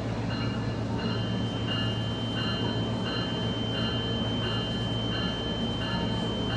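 SMART diesel multiple-unit train running slowly, with a steady low hum. Over it a high chime repeats about every two-thirds of a second, and a steady high tone joins about a second in.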